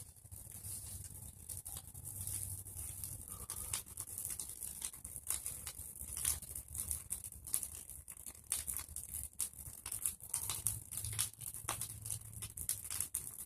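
Bonfire of pruned tree branches and leaves crackling, with a dense, irregular run of sharp pops over a steady hiss.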